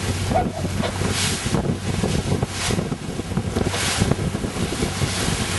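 Wind buffeting the microphone on a yacht under way, with water rushing past the hull in several brief swells and a steady low hum underneath.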